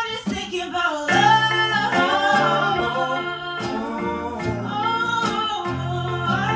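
Live folk-pop band playing: singing over guitars and held bass notes, with no words picked out.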